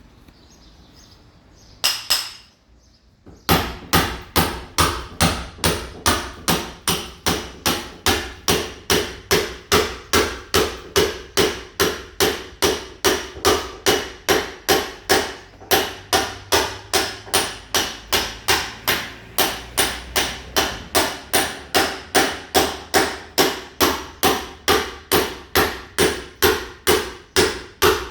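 Mason's hammer striking a wall over and over, chipping the plaster to key it for ceramic tile. After a quiet start and a couple of blows, it settles into a steady rhythm of about two sharp, ringing blows a second.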